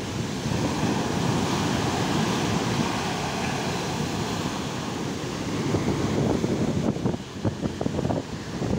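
Large ocean waves breaking and washing up a sandy beach at high tide, a steady surf roar, with strong wind buffeting the microphone in gusts, choppiest near the end.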